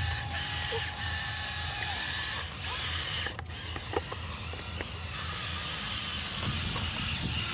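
Small electric motor and plastic gearbox of a radio-controlled toy dump truck whirring, with a faint slightly wavering whine over a pulsing low hum. A few sharp clicks come through, one about four seconds in.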